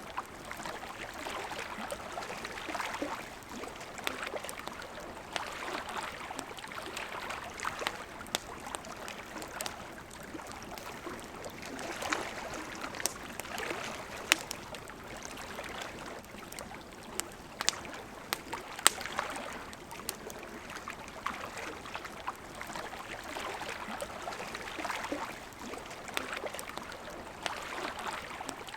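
Campfire crackling beside a flowing river: a steady rush of water under scattered sharp pops and snaps from the burning wood, a few of them louder, in the middle of the stretch.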